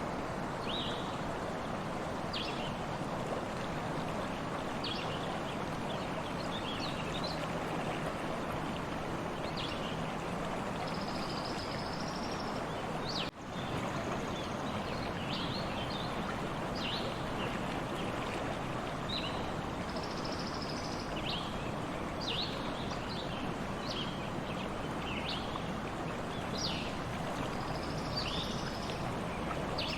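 A stream running steadily, with birds giving short high chirps over it throughout. The sound drops out for an instant about 13 seconds in.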